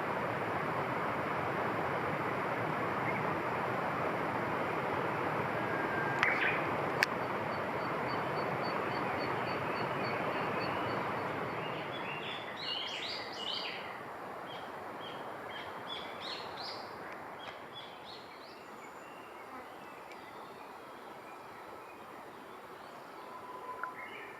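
Steady rushing background noise that fades away about halfway through. Over it, a songbird sings a run of short, high, quick notes, after a brief series of even high ticks.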